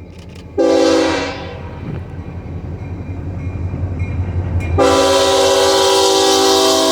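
Locomotive air horn of the EMD GP40-3 leading the train, sounding a chord: a short blast about half a second in, then a long blast starting near the end. Under it the diesel engine rumbles, growing louder as the locomotive approaches.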